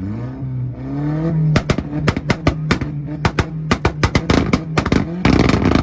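Tuned Acura engine revved up and held on a two-step launch limiter, its exhaust popping and banging in a rapid string of sharp cracks, ending in a dense rapid volley near the end.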